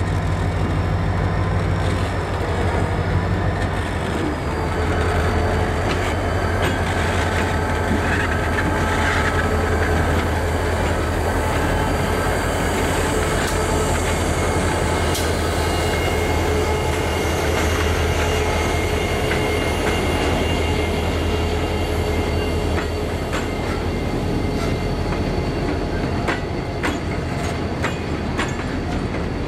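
Norfolk Southern diesel freight locomotives passing slowly with a heavy, steady engine drone. After the engines go by, the drone fades about three quarters of the way through, and the container cars' wheels click over rail joints with a thin, high wheel squeal.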